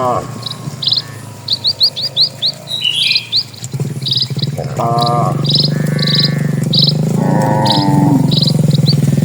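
A bird repeating a short high chirp about twice a second, with a quick trill of chirps early on. A steady low hum comes in about four seconds in and becomes the loudest sound, and a few brief pitched calls rise above it.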